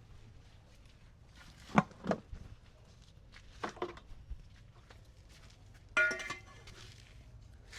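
Cooking pots and utensils knocking and clinking twice in quick pairs, then a short pitched call about six seconds in.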